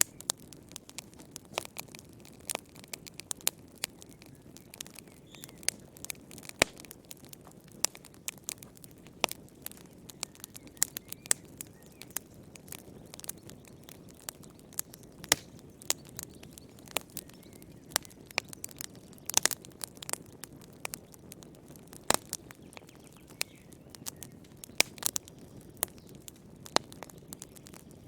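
Wood fire crackling in a fireplace: irregular sharp pops and snaps, several a second, over a soft low hiss.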